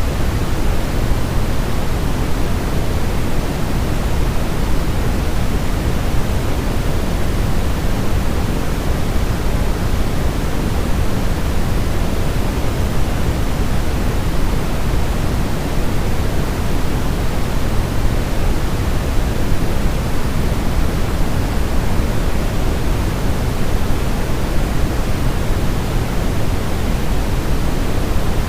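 Steady, unbroken sleep-aid noise with most of its weight in the low end, a deep, even rush like pink noise rather than a thin hiss.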